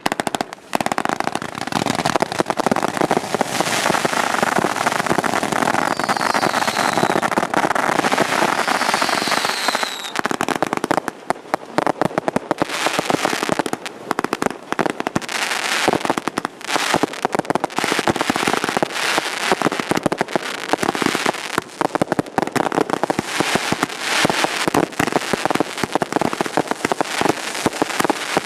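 Consumer (1.4G) fireworks going off continuously: a dense run of rapid bangs and crackling, with two short high falling tones about six and nine seconds in.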